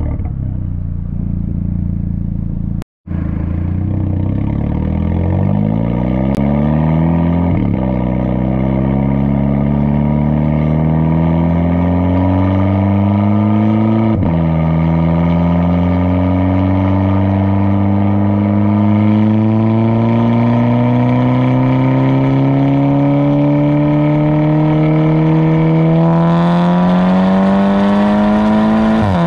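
Turbocharged VW GTI engine through an aftermarket Tomei exhaust, accelerating hard. Its note rises steadily and drops sharply at each gearbox upshift, about 7 and 14 seconds in and again at the very end. Near the start it falls away briefly, with a momentary cut in the sound.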